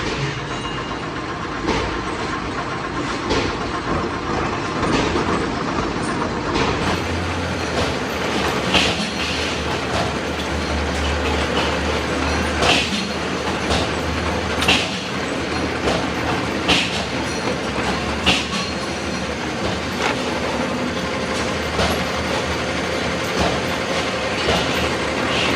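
Metalworking machinery running in a sprocket factory, with a sharp metallic strike about every two seconds over a steady clatter.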